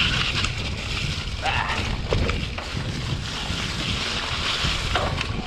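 Wind buffeting the camera microphone over the rumble of a mountain bike rolling along a dirt trail.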